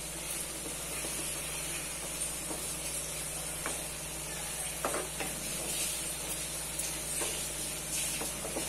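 Masala-coated chicken pieces sizzling in oil in a non-stick kadai while being stirred with a spatula, a steady hiss with a few short scrapes of the spatula against the pan.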